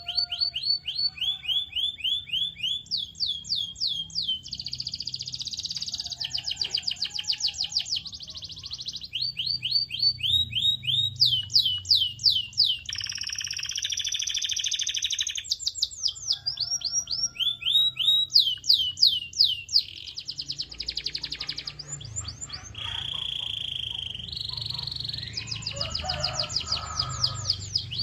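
Canary singing a long, continuous song of rapid trills. Each run repeats one quick down-slurred note many times for a second or two, then switches to a new note type, with buzzy rolls and a short held whistle mixed in.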